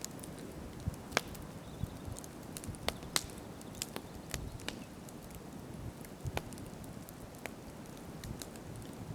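Wood campfire crackling: irregular sharp pops and snaps, a few loud ones among many small ones, over a soft steady hiss of burning.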